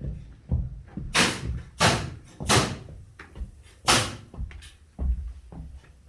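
A series of irregular knocks and thumps, with four louder, sharper strikes in the middle.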